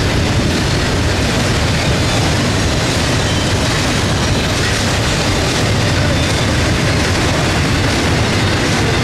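Train rolling past, a steady rumble of wheels on rails.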